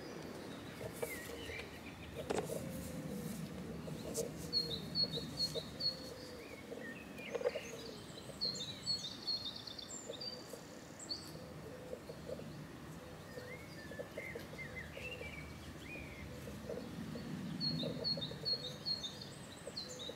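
Small songbirds chirping in short runs of quick high notes and trills, several times over, above a low steady outdoor background, with faint soft handling knocks in between.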